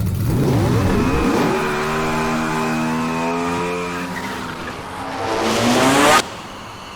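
Car engine revving: the pitch drops and settles into a steady note, then climbs again in a hard rev that cuts off suddenly about six seconds in.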